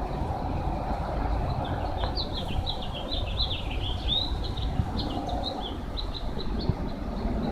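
Steady low rumble of wind, with a small bird chirping in quick runs of short high notes from about a second and a half in until near the end.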